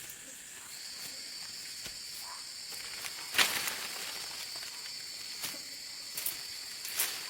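Insects calling in a steady high-pitched drone, with a second, lower steady insect tone joining about a second in. A few sharp snaps or knocks, the loudest about halfway through.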